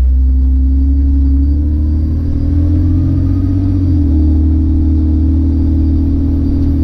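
2000 Jeep Cherokee XJ's 4.0-litre inline-six running under way with a low rumble. Its note climbs steadily, then drops about four seconds in as the automatic transmission shifts up.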